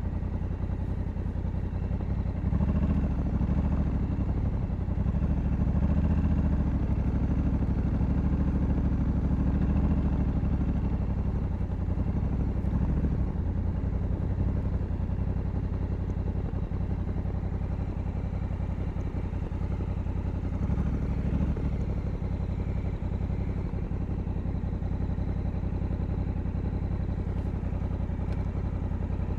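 Honda Africa Twin 1100's parallel-twin engine running steadily, with louder spells from a couple of seconds in to about ten seconds in, and again briefly about twenty seconds in.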